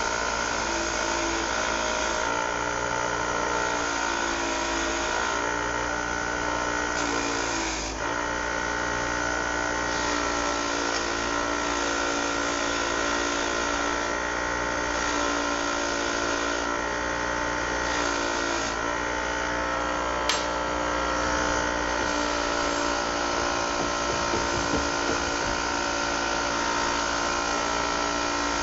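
Steady machine whine made of several fixed tones, running without a break: a running motor. There is a short dip about eight seconds in and a single sharp click about twenty seconds in.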